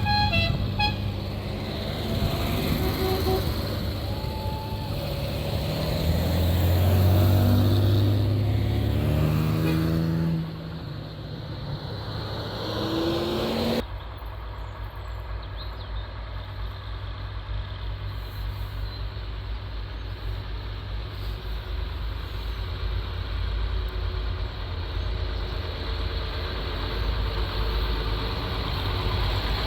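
Tractor engines running, one climbing in pitch as it pulls away in the first part; from about a third of the way in, a steady low engine rumble.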